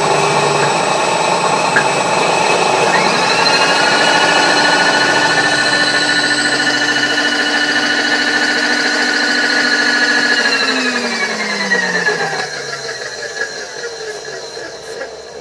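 Metalworking machine tool running: a motor whine rises quickly about three seconds in and holds steady over a noisy background, then falls in pitch as the machine spins down from about ten seconds in.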